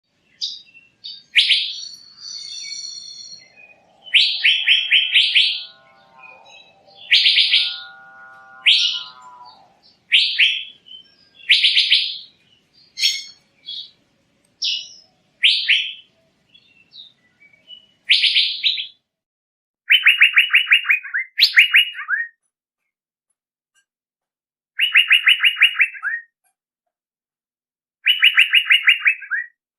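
Male Asian fairy-bluebird (cucak biru) calling: a series of short, loud, high phrases with pauses between them, then from about two-thirds of the way through, rapid trills of about a second each, repeated several times. A lower, tuneful call sounds alongside the phrases for a few seconds near the start.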